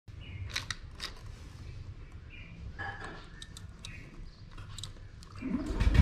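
Birds chirping in short calls with a few sharp clicks, over a low steady rumble; a deep swell builds near the end.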